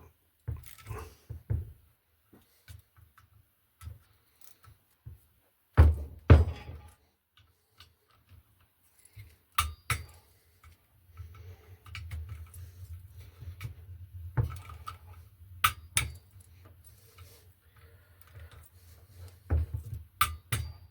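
Metal hand tools clinking and knocking on the heat exchanger's cover bolts as they are tightened in steps, with scattered sharp clicks and a louder clatter about six seconds in.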